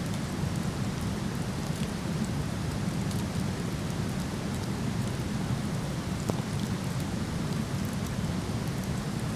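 Waterfall rushing in a steady, even roar, with faint scattered crackles from a wood campfire, one slightly sharper pop about six seconds in.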